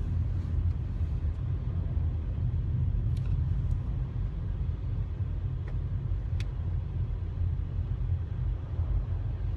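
Steady low rumble of a moving car, with a couple of faint clicks.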